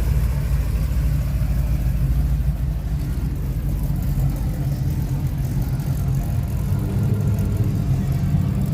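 Car engine idling steadily, an even low rumble with no revving.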